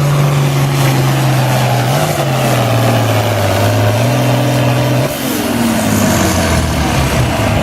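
International Harvester 966 tractor's engine pulling a sled under heavy load at a steady high speed, dipping slightly about three seconds in. About five seconds in, the engine note falls as the revs drop.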